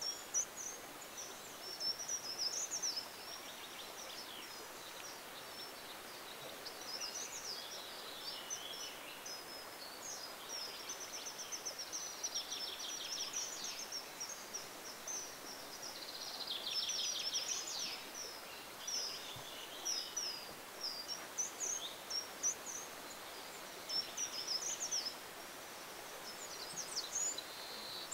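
Wild birds calling and singing: many short high chirps and several rapid trills come and go throughout, over a faint steady outdoor hiss.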